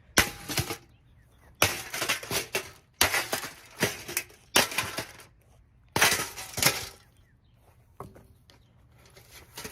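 A Holmes box fan being smashed: about five rounds of repeated hard blows, with plastic cracking and broken pieces clattering, then two lighter knocks near the end.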